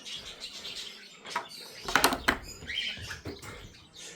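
Aviary birds chirping a few times, with a couple of sharp knocks about two seconds in that are the loudest sounds.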